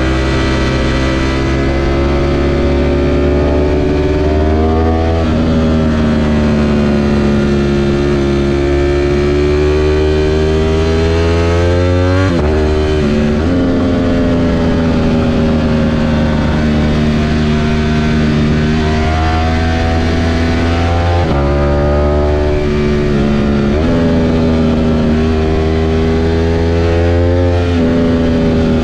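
Ducati V4 S sport bike's V4 engine under way, rising and falling in pitch as the throttle is worked through the bends. A long climb in revs ends in a sudden drop about twelve seconds in, and there is another sudden drop about nine seconds later as the throttle is shut or a gear is changed.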